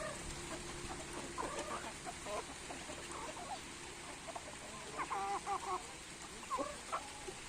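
Village chickens clucking, many short calls from several birds, bunched into busier clusters about a second and a half in and again near the end.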